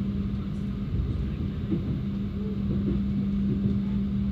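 Mutiara Timur Siang passenger train running, heard from on board: a steady low rumble with a constant hum that drops out briefly about a second in.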